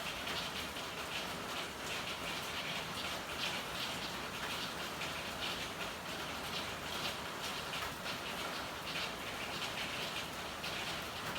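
Steady rain falling, with irregular spatters of drops hitting a hard surface several times a second.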